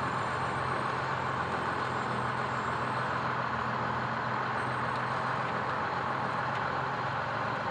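Fire truck engine running steadily, a constant low hum under an even rumble.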